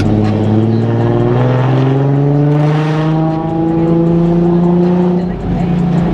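Nissan 370Z's 3.7-litre VQ37 V6 with a Tomei exhaust accelerating, heard from inside the cabin, its note rising steadily in pitch. About five seconds in the sound dips briefly and the pitch drops a little before holding steady.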